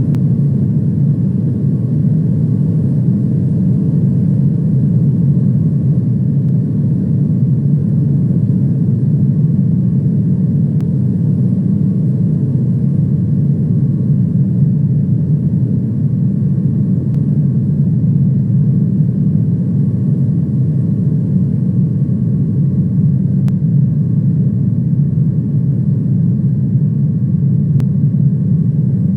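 Steady drone of an airliner in flight, heard from inside the cabin: a constant low rumble of engines and airflow, with a faint steady whine above it.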